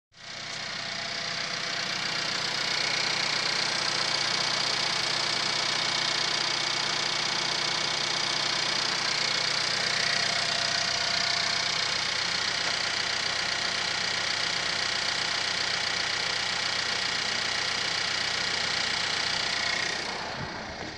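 The 1.4-litre turbo petrol four-cylinder engine of a 2019 Suzuki Vitara, idling steadily under the open bonnet. It fades a little near the end.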